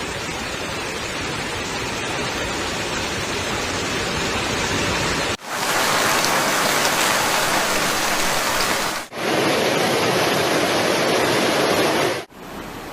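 Loud, steady rush of water from the flood footage: a dense hiss-and-roar with no pitch. It cuts off sharply three times, at about five, nine and twelve seconds in, as one clip gives way to the next, and each stretch sounds slightly different.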